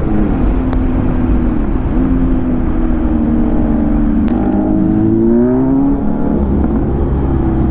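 Motorcycle engine running under way, its note rising and falling with the throttle, over heavy wind rumble on the microphone.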